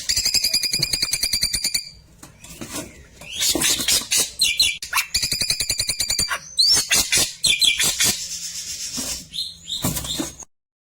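A klewer songbird singing fast, machine-gun-like bursts of rapidly repeated high notes, several bursts in a row with short breaks between them. The song is cut off abruptly near the end.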